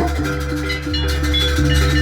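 Live Javanese jaranan campursari music: struck metal notes and drum strokes over low, held tones.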